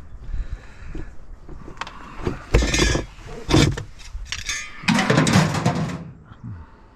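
Scrap metal being handled: a few sharp metallic clanks about two and a half to four seconds in, then a second-long clatter and scrape about five seconds in.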